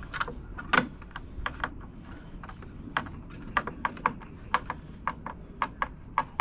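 Hand tool clicking as screws are driven into a trolling motor mount: a run of sharp clicks, about two or three a second.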